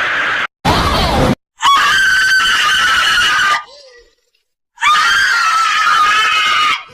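Cartoon scream sound effects played one after another: a held scream that cuts off, a short harsh burst, then two separate high screams of about two seconds each.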